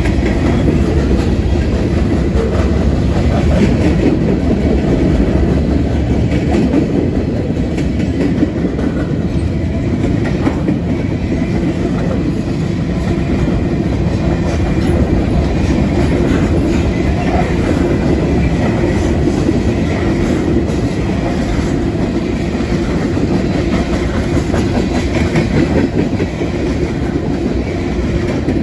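Freight cars of a manifest train rolling past at close range: a loud, steady rumble of steel wheels on the rails with clickety-clack from the wheel sets.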